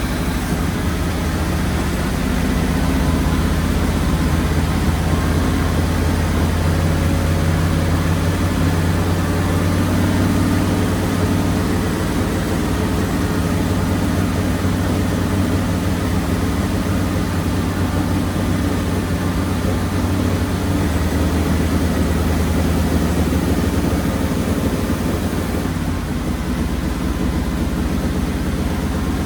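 Ford flathead engine with twin Holley 94 carburetors running warm at a raised idle, a steady low running sound whose speed shifts slightly a few times as the idle screw is turned to balance the two carburetors' vacuum.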